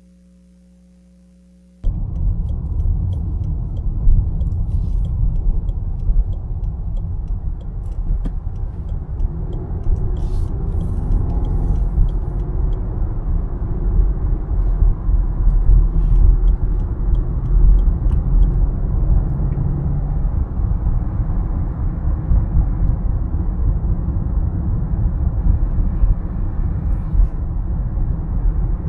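2014 Rolls-Royce Ghost being driven: a loud, steady low rumble of road and wind noise that starts abruptly about two seconds in, after a faint hum.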